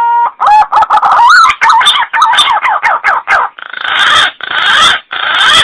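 Green pigeon (punai) call played as a hunting lure: the end of a long whistled note, then a quick run of wavering, warbling whistles, finishing with three harsh, hissy notes.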